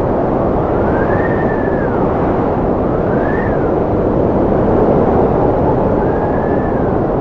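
Strong wind blowing in a steady roar, with a thin whistle that rises and falls three times as gusts pass.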